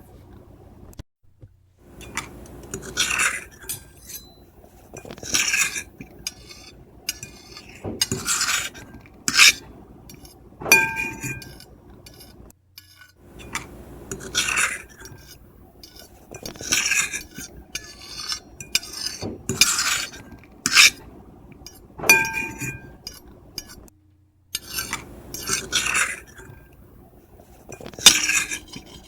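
Metal fork and knife scraping across a plate in separate strokes, one every second or few. A few of the strokes ring with a high squeal. The sound drops out completely for a moment about three times.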